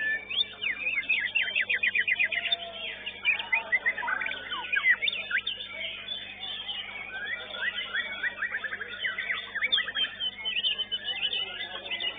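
White-rumped shamas (murai batu) singing over one another: a dense mix of whistled notes, chirps and rapid trills, with a steady low hum underneath.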